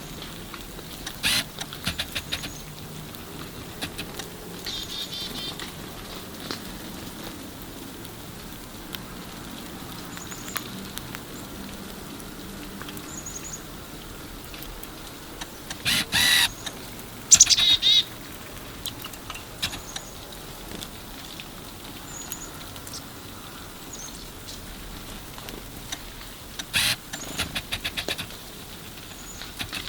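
Nuthatch calling: short high chirps scattered throughout, and nasal calls twice, about five seconds in and again past the middle. Three bursts of rapid sharp tapping stand out as the loudest sounds: near the start, around the middle and near the end.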